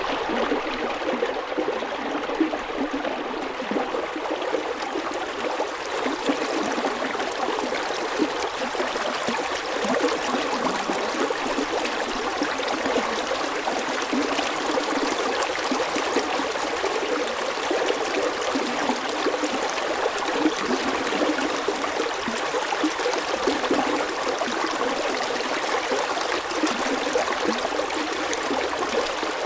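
Stream water flowing past ice formations, a steady babbling and trickling.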